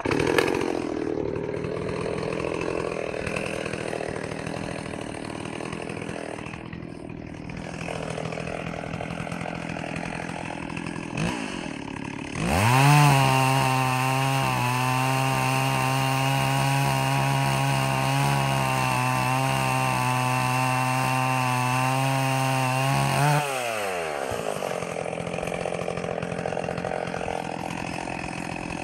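Stihl 038 Magnum two-stroke chainsaw running while cutting up a tree. It runs at lower, wavering revs, then revs up sharply about twelve seconds in and holds a steady high-pitched full-throttle run for about ten seconds. It then drops back, and revs up again at the very end.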